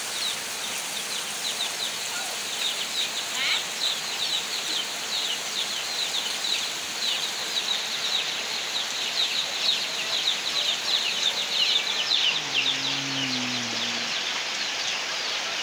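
Heavy rain pouring steadily on a dirt yard and a porch roof, with a bird peeping rapidly and repeatedly throughout in short, high, falling notes. A brief low voice sounds about twelve seconds in.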